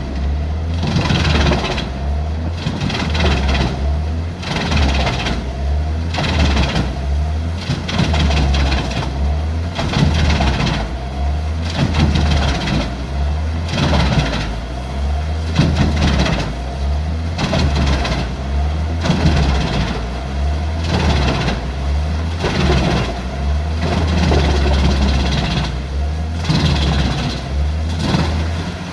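Large wood chipper running, its engine drone pulsing about once a second.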